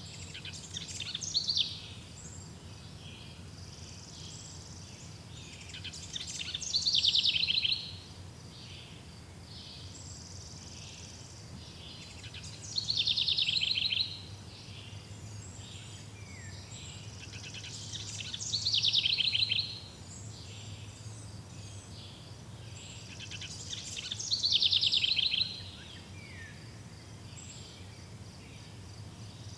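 A songbird singing the same short, high phrase over and over, one burst of about two seconds roughly every six seconds, over a steady background of outdoor noise.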